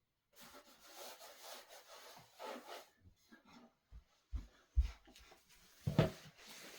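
Wood rubbing and scraping in a few rasping strokes, then several dull knocks.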